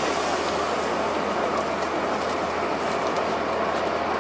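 Steady running noise heard inside a 2002 Blue Bird transit bus powered by a Cummins ISC diesel engine with an Allison automatic transmission.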